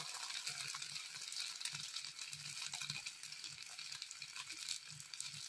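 Egg-coated shami kebabs shallow-frying in hot oil: a steady sizzle with many fine crackles.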